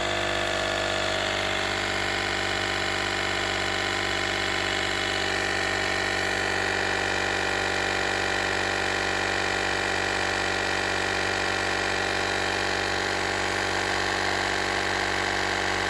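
The small 12-volt air compressor built into a Harbor Freight Viking jump pack runs steadily, pumping up a car tire from about 30 to 34 psi. It is shut off at the very end.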